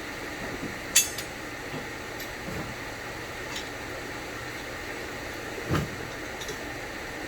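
Metal tools and parts clinking as they are handled: a sharp ringing clink about a second in, a few light ticks, and a duller knock near six seconds, over a steady background hiss.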